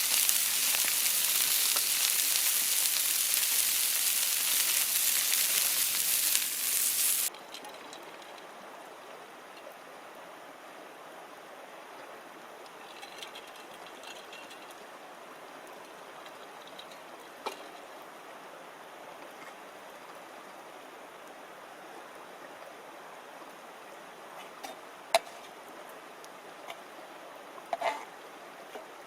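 A loud sizzling hiss that cuts off suddenly about seven seconds in. A quieter steady hiss follows, with a few sharp crackles or pops, two of them near the end.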